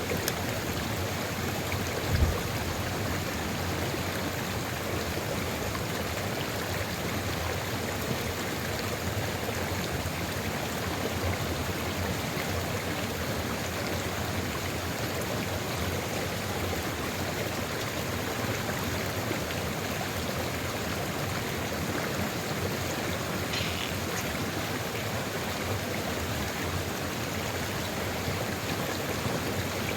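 Sulfur river flowing steadily, a constant rush of running water. A brief low thump comes about two seconds in.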